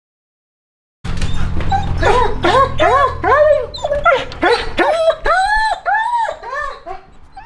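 A dog barking rapidly and repeatedly, about three barks a second, starting about a second in, with a low rumble beneath the first few barks.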